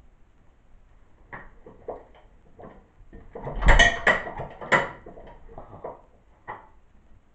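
Metal clicks and knocks from handling the 1936 International Harvester LA stationary engine as it is readied to start. They are spaced irregularly, and in the middle they gather into a louder clatter with one heavy low thump.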